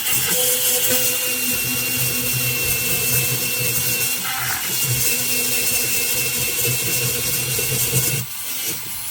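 Slow-speed dental handpiece spinning a polishing brush on an amalgam filling: a steady motor whine with a thin high tone over it. It stops about eight seconds in.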